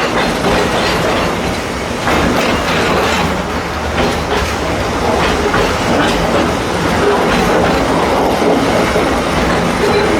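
Narrow-gauge train under way: wheels clicking and rumbling over the track, with a steady low drone under it, heard from an open-air passenger car.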